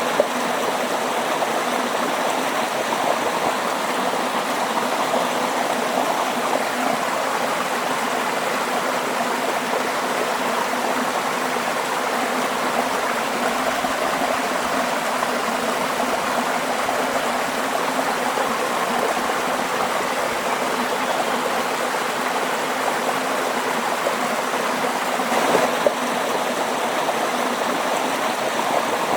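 Waterfall: water falling and rushing in a steady, even splash.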